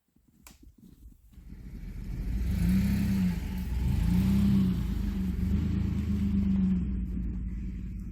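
An engine running loud with a low rumble, its pitch rising and falling three times as it revs.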